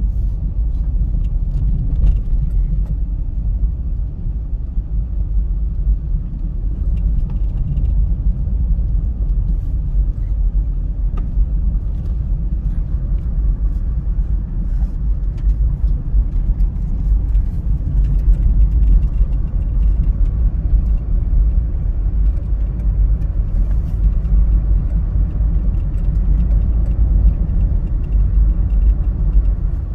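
1998 Mazda MPV minivan being driven, heard from inside the cabin: a steady low rumble of engine and road noise.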